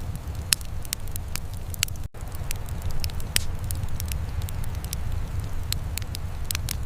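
Wood fire crackling, with irregular sharp pops over a steady low rumble of burning. The sound cuts out for an instant about two seconds in.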